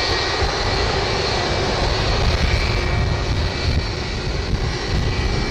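Airbus A330's jet engines running at taxi power: a steady roar with a faint high-pitched whine over it.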